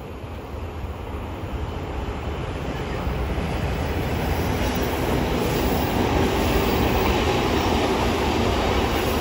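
JR Kyushu 813 series electric train approaching and running past on the line, a rumble of wheels on rail that grows steadily louder as it draws near.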